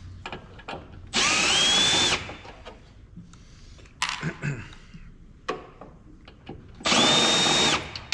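Electric drill/driver motor running in two short bursts about five seconds apart, each about a second long, its whine rising in pitch as it spins up and then holding steady. Light clicks and knocks of handling fall between the bursts.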